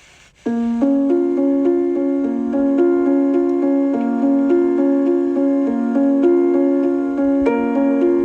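Background piano music, a steady flow of gentle notes starting about half a second in, after a faint hiss of wind cuts off.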